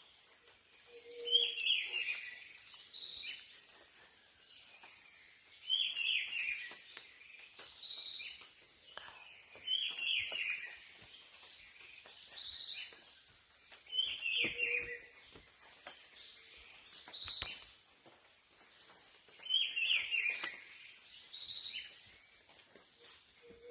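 Birdsong: one bird repeats the same short, falling, high-pitched phrase about every four to five seconds, with fainter chirps from other birds in between.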